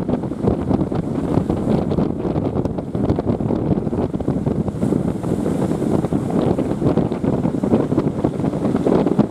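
Wind buffeting the microphone: a steady, low, rumbling rush with no distinct events.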